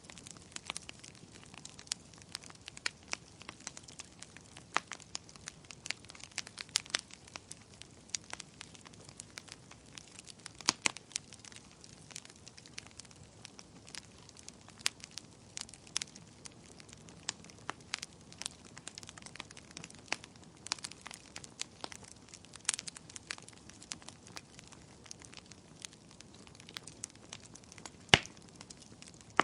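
Wood campfire crackling, with irregular sharp pops and snaps over a low hiss and one louder pop near the end.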